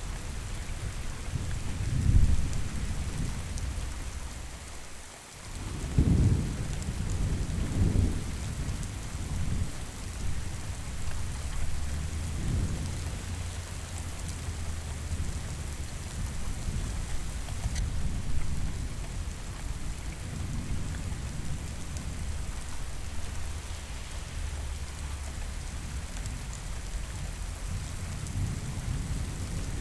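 Steady rain with rolling thunder: deep rumbles swell and fade over and over, the strongest about two and six seconds in.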